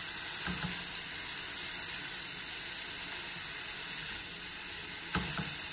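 Chicken, corn and carrot sizzling steadily in a stainless steel wok as they are stirred with a silicone spatula, with two soft knocks of the spatula against the pan, about half a second in and near the end.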